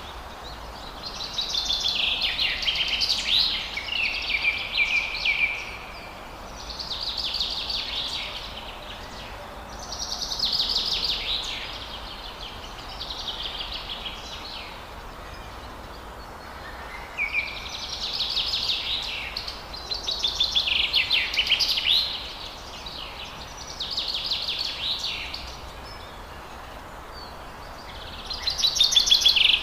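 Forest songbird singing short, rapid trilled phrases, one every few seconds, over a steady background hiss.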